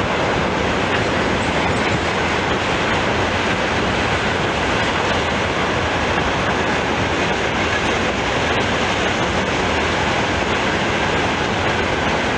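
Freight train of railway tank wagons rolling past, with the steady, loud rush of steel wheels running on the rails.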